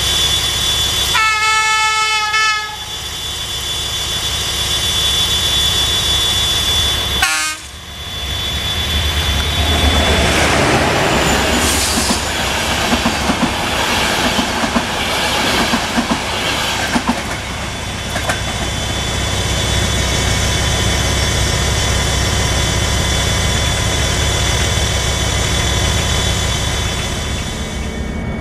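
Diesel locomotive horn sounding for about a second and a half, then a shorter falling blast, as a passenger train approaches; then the train passes at speed, wheels clacking over rail joints over a steady rolling rumble.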